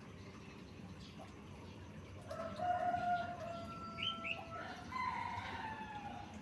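A rooster crowing once, starting about two seconds in and lasting a few seconds, over a faint steady hiss.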